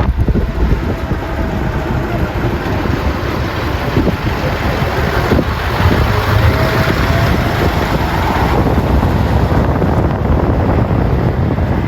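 Heavy truck engines rumbling as decorated trucks pull out, with wind buffeting the microphone.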